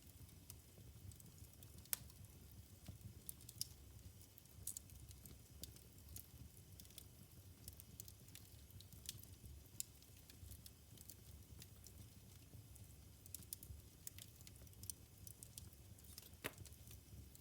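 Wood fire crackling in a fireplace: scattered sharp pops and ticks over a faint low rumble, with the sharpest pop about two seconds in and another loud one near the end.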